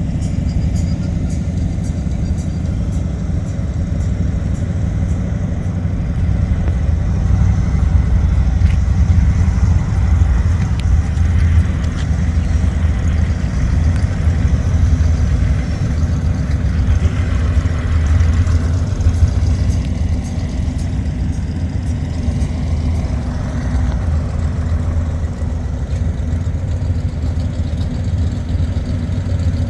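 Truck engines running with a steady low rumble that swells slightly in the middle stretch.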